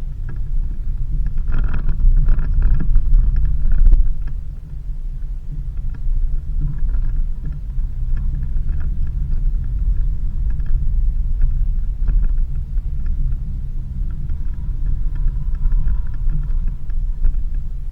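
Low, steady rumble of a 4x4 vehicle driving on a dirt road, heard as road and drivetrain noise, with a louder, rougher stretch for a couple of seconds near the start.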